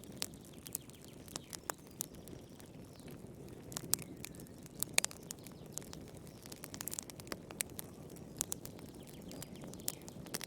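Wood fire in a fireplace crackling, with a steady low rumble of flames and sharp pops at irregular intervals. The loudest pops come around four and five seconds in.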